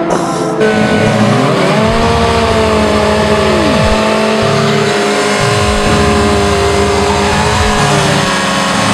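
Sport motorcycle engines running loud at the drag strip start line, with the revs blipped up and down again and again.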